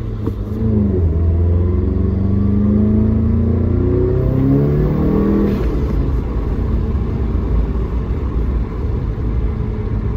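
Volkswagen GTI MK7.5's 2.0-litre turbocharged four-cylinder, heard from inside the cabin, accelerating hard with its pitch rising for about five and a half seconds. The rise then breaks off into a steady low rumble. The engine is running with a newly fitted Neuspeed power module that raises boost.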